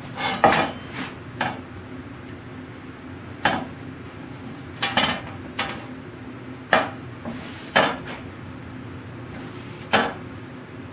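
Scattered clinks and knocks of small metal hand tools being picked up and set down on a workbench, about ten in all, with a short scrape or two near the end.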